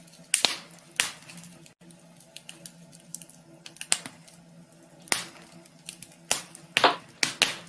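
Wood fire crackling in a wood stove: irregular sharp pops and snaps, about a dozen scattered through, several close together near the end.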